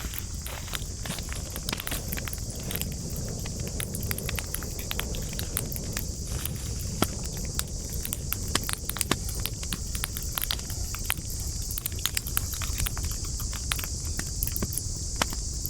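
Wood campfire crackling, with sharp pops and snaps several times a second over a low rumble of burning and a steady high hiss.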